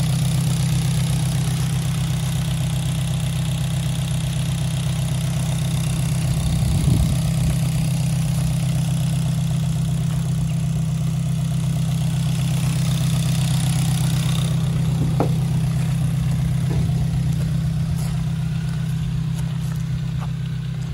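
Morgan Plus 4's four-cylinder engine, fitted with throttle bodies, idling steadily, with a brief small rise in level about seven seconds in.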